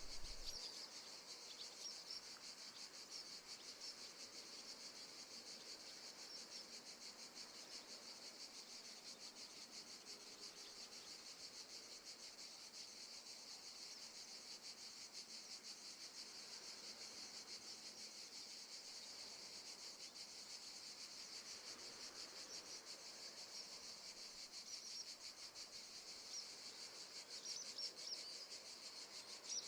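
A faint, steady chorus of crickets chirping with a rapid pulse.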